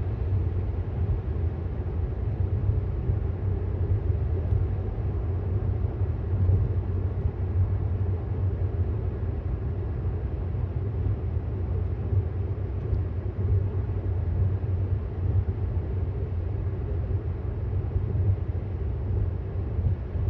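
Steady low road and tyre rumble heard inside the cabin of a moving 2018 Tesla Model S, with no engine sound.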